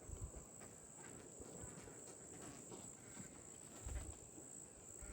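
A faint, steady high-pitched insect chorus of crickets or similar insects, with a few soft low thumps, at the start, about four seconds in and near the end.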